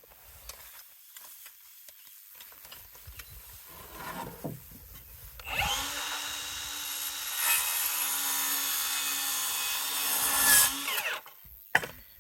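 An electric power tool motor spins up about halfway through, runs steadily for about five seconds and winds down. Faint knocks of boards being handled come before it, and one sharp click near the end.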